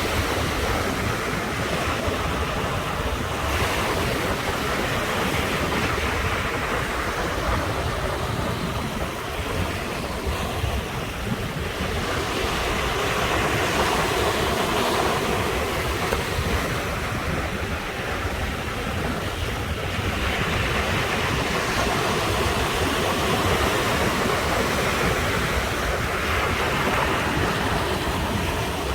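Sea waves breaking on the shore in a continuous wash of surf that swells and eases every several seconds.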